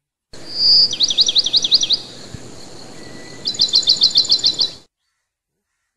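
A songbird singing: a short high whistle, then a quick run of about six down-slurred notes, and after a pause a faster run of about ten notes. The song starts and cuts off suddenly.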